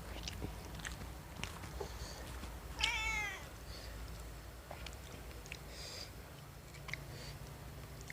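A cat meows once, a short falling call about three seconds in, over small scattered clicks of eating.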